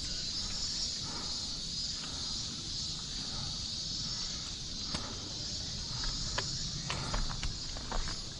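A hiker's footsteps on a forest trail, a few scattered steps and then a quicker run of them in the last couple of seconds, over a steady high insect chorus and a low rumble of handling noise on the camera.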